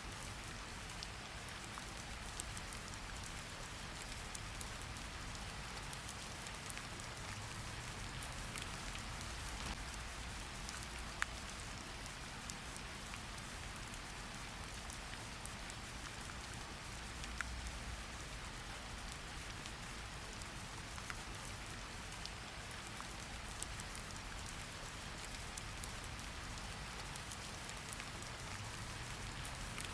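Steady rain falling on a surface, an even patter with scattered individual drop ticks.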